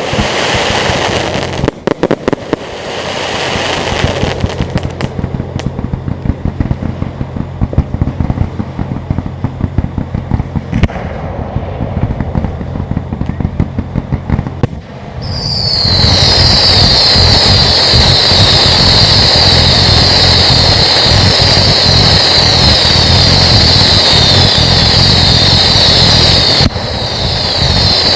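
Fireworks display: repeated bursts and dense crackling. About halfway in, a loud, steady high shrill hiss of many whistling or crackling shells takes over and cuts off suddenly near the end.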